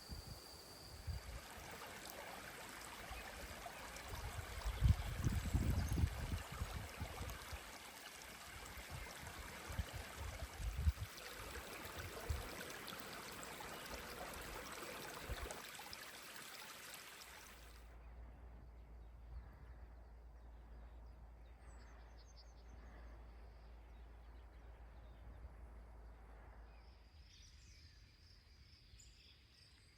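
Outdoor ambience with a steady rushing noise and some low rumbles about five seconds in. After about eighteen seconds it changes suddenly to a quieter background with a low hum and a few high chirps, and near the end a thin high insect chirring.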